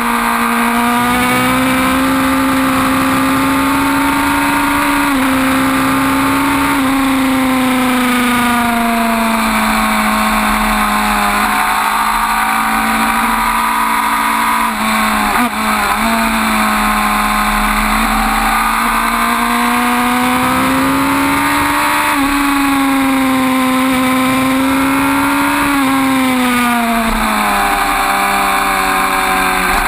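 Suzuki GSX-R 1000 K5's inline-four engine running at high revs under way, its pitch rising as it pulls and falling as the throttle eases, over a steady rush of wind. About halfway through the sound briefly breaks off and the pitch jumps.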